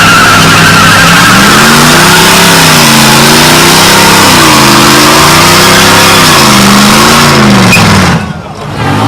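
A vehicle engine revs up and down over and over, very loud and overloading the microphone, over a thick hiss of noise. About eight seconds in the sound briefly drops away, then the revving comes back.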